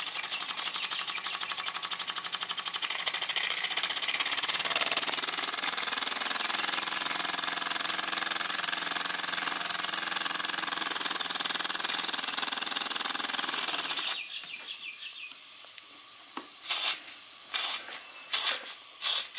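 Model steam engine running fast, a rapid even beat of exhaust with steam hiss. About 14 s in it changes abruptly to quieter, spaced chuffs as the engine works under the Baker fan's load.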